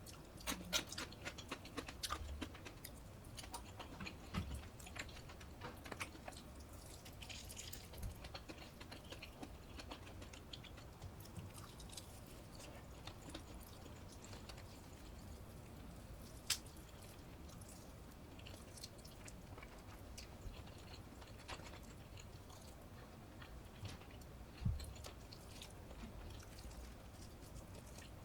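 Close-miked chewing and mouth sounds of a person eating. The small wet clicks come thickly in the first several seconds, then thin out, with a couple of sharper clicks later on.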